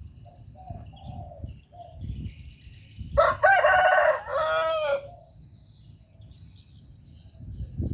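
Spotted dove giving soft, low coos. About three seconds in, a much louder drawn-out call lasting about two seconds drowns them out, and faint chirps of small birds sound throughout.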